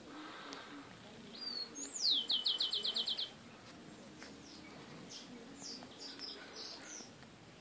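A small bird singing: a short whistled note, then a quick trill of about eight high descending notes, followed by a few scattered chirps.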